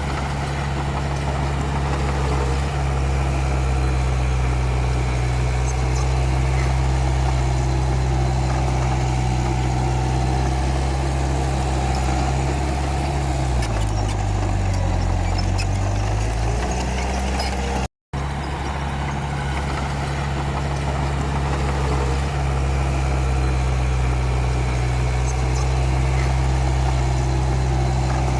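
Komatsu D31P bulldozer's diesel engine running steadily. Its pitch drops for a few seconds about halfway through, then climbs back. The sound cuts out for an instant about two-thirds of the way in.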